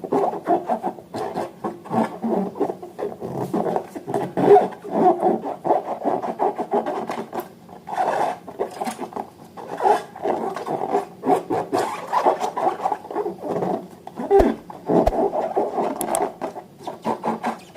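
Slime being worked by hand, stirred and squished with balloons: an irregular run of rubbing, sticky squelching and small crackles.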